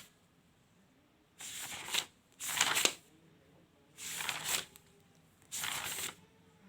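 Paper notebook pages being turned one after another: four short rustling swishes, about one every second and a half.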